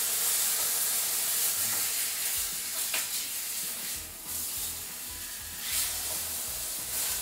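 Marinated tuna searing in hot oil in a frying pan: a steady high sizzle that eases briefly about four seconds in, with a light click about three seconds in.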